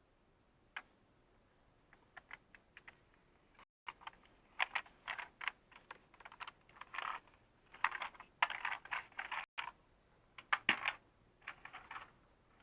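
Hard plastic toy pieces being handled: irregular clicks and short clatters, sparse at first and busier from about four seconds in.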